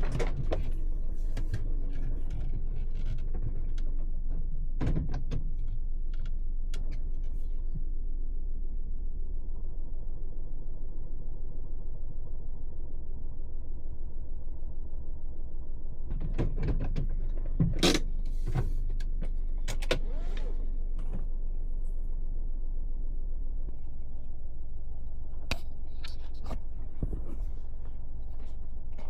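Steady low rumble of a Suzuki Every kei van on the road, heard from inside the cabin, with a few short clicks and knocks now and then.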